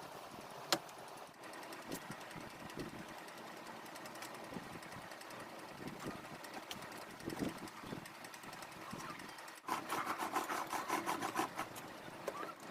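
A sharp click about a second in, then low workshop noise; near the end a small machine runs for about two seconds with a rapid, even rhythm.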